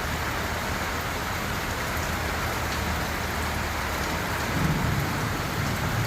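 Rain falling steadily, an even hiss of drops striking the ground and surfaces.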